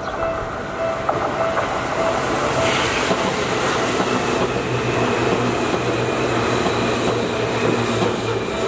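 A Seibu Railway electric commuter train runs over a level crossing. Its passing noise builds about a second in and stays loud, with a steady low hum in the second half. Under it the crossing's electronic warning bell rings about twice a second, heard plainly at the start and then mostly covered by the train.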